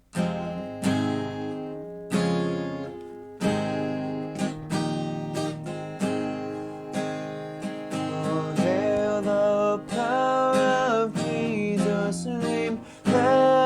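Acoustic guitar strumming chords as a hymn introduction, with a solo singing voice entering over it about two-thirds of the way in.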